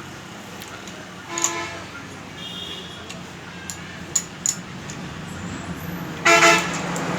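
Two short vehicle horn toots, the second one near the end and louder, over a steady low hum. There are a few sharp metallic clicks in between.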